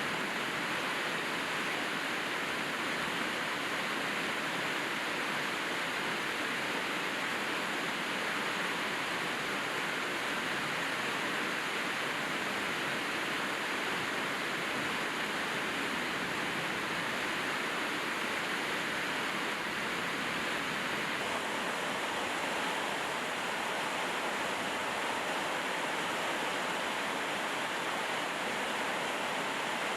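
Steady rain falling: an even, unbroken hiss that holds the same level throughout, with no separate drops or thunder standing out.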